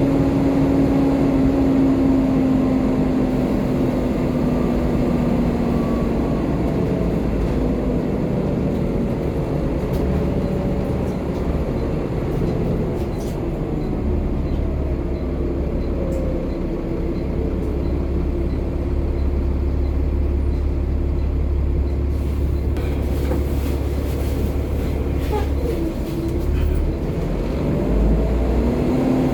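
Volvo B7TL double-decker bus with its Volvo D7C six-cylinder diesel, running with a steady low rumble. The engine note falls over the first several seconds as the bus eases off, and rises again near the end as it pulls away.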